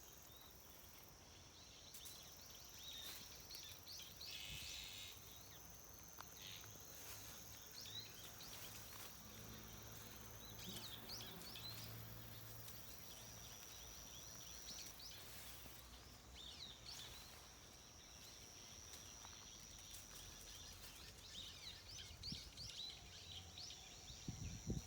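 Faint outdoor ambience: small birds chirping briefly now and then over a steady, high-pitched trill that stops and restarts a few times.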